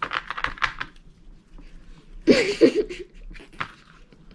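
Playing cards being shuffled, a quick run of soft clicks in the first second. A little over two seconds in comes the loudest sound, a short high-pitched vocal sound whose pitch wavers up and down, like a squeal or giggle.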